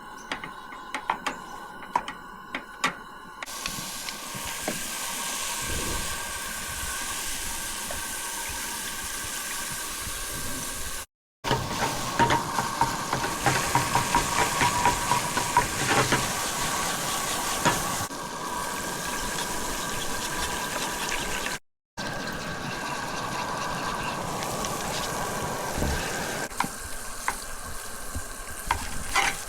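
Food sizzling and crackling as it fries in a pan, a steady hiss full of small pops. It starts after a few light clicks and breaks off twice for a moment.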